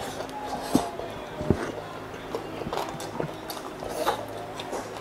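Close-up eating sounds of a person chewing pork and rice eaten by hand: wet chewing, lip smacks and irregular clicks, two sharp ones in the first second and a half. Near the end, sucking sauce off his fingers. A steady low hum runs underneath.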